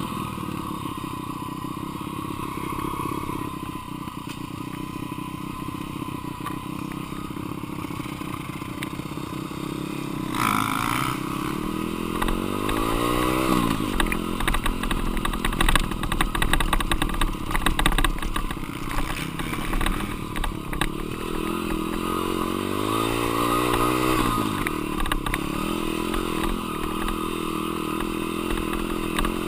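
Single-cylinder dirt bike engine being ridden, held on part throttle and then opened up twice, its pitch climbing and dropping back each time. Knocks and rattles from the bike run through the middle part.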